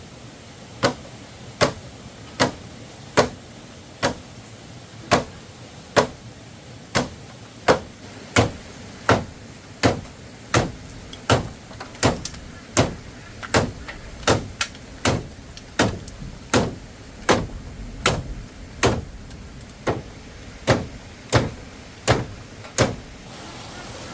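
A long run of sharp blows, one roughly every three-quarters of a second in a steady rhythm, coming a little faster in the middle. They stop shortly before the end, over a steady background hiss.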